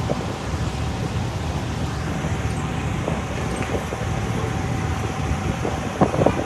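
Steady street traffic and vehicle engine noise, with a faint steady whine throughout and a few short knocks about six seconds in.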